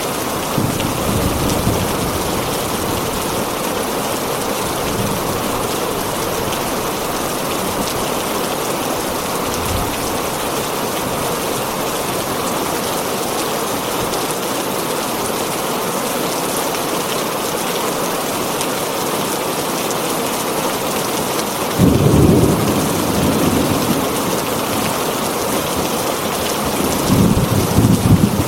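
Heavy rain falling steadily on a tin roof, with low rolls of thunder shortly after the start, about three-quarters through and again near the end.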